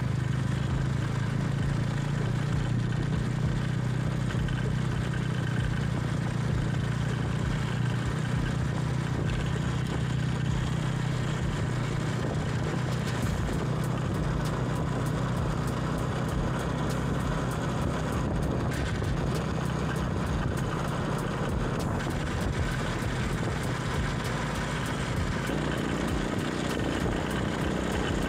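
A vehicle running steadily, with a constant low hum and noise and no change in pace.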